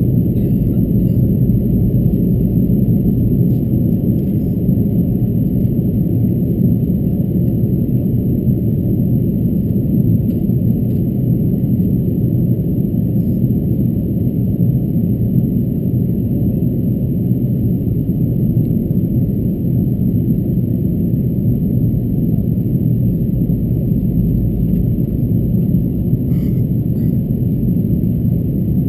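Steady, muffled cabin rumble of an Airbus A330-223 airliner in flight: its engines and the airflow over the fuselage, deep and even throughout, with a few faint ticks.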